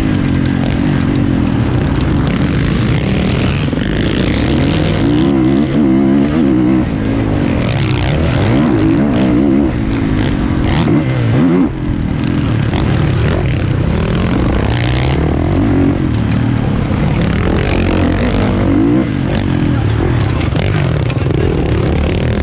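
450cc motocross motorcycle engine at racing speed, its pitch rising and falling again and again as the throttle is opened and closed, over wind noise, with a brief drop about halfway through.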